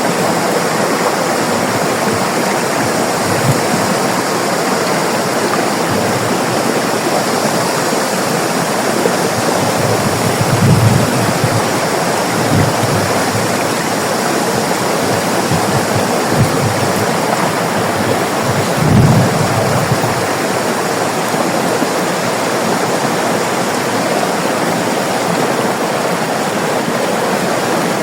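River water rushing steadily over rocks in a continuous, even flow. A few brief low rumbles come through, the clearest about a third and two-thirds of the way in.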